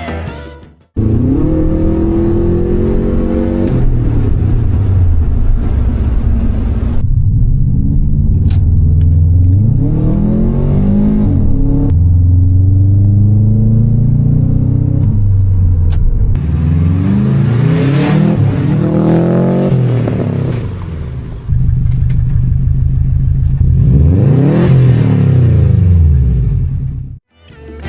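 Classic car engine being revved, its pitch climbing and dropping again several times. It comes as a few short clips cut one after another.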